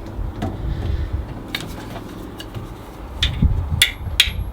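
A mallet striking repeatedly: sharp knocks, each with a short ring, coming faster in the second half.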